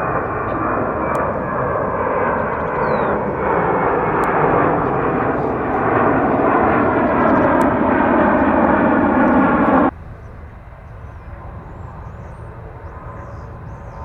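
Jet airliner's engines at takeoff power, a loud steady roar growing slightly louder, then cut off abruptly about ten seconds in, leaving a much quieter steady background.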